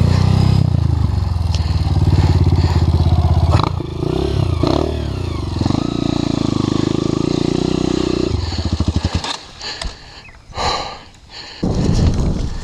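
Trail motorcycle engine running under load, revving up and down about four seconds in, then holding steady. About nine seconds in it drops away to much quieter sound, and it comes back loud near the end.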